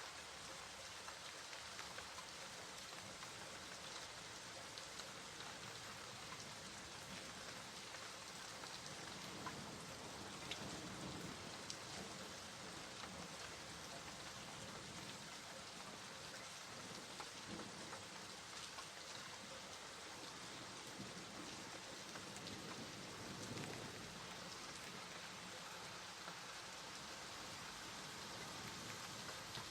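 Steady rain falling, with many small drop ticks and a few soft low swells along the way.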